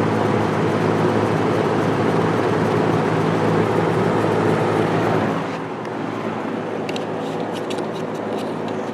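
Vintage Sears box fan running on low: a steady motor hum with the rush of air from the blades, its warped blades making it vibrate a little. About five seconds in the hum drops away and a few faint clicks follow.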